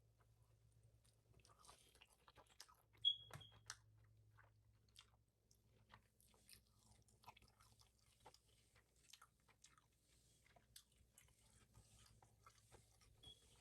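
Faint, close-miked chewing and mouth sounds of someone eating Chinese takeout food, with scattered small clicks and crunches and one sharper click about three seconds in.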